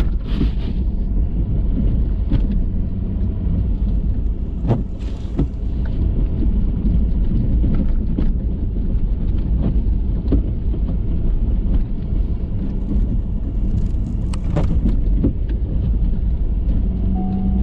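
Ford F-350 pickup with a snowplow driving through deep snow, a steady low rumble with a few scattered knocks.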